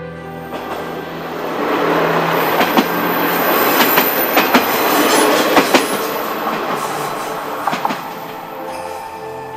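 Kiha 40-series diesel railcars passing close by on jointed track: a rumble that builds, with a run of wheel clacks over the rail joints through the middle, then dies away as the train recedes.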